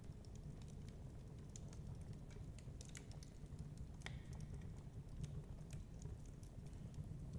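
Wood fire crackling in a fireplace: irregular small snaps and pops over a steady low rumble.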